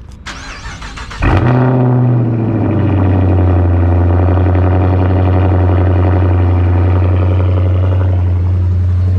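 Mopar car engine cold-starting: it catches about a second in, runs briefly at a raised fast idle, then settles into a loud, steady cold idle.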